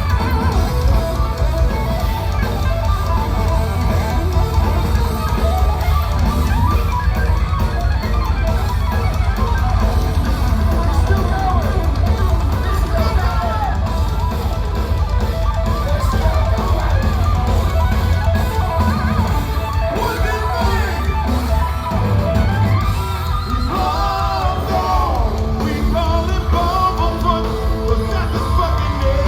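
Progressive metal band playing live: electric guitar over heavy bass and drums, continuous and loud.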